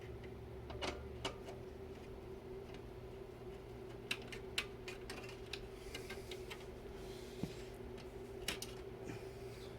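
Scattered small clicks and ticks of a screw being driven and metal parts handled while a graphics card is fastened into a computer case, over a steady low hum.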